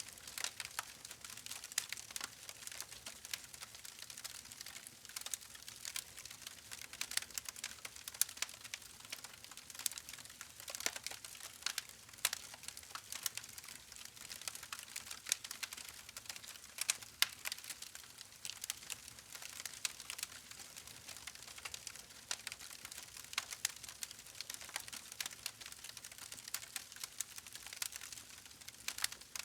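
Campfire wood crackling: a dense, irregular run of small sharp pops and snaps over a soft steady hiss, with now and then a louder pop.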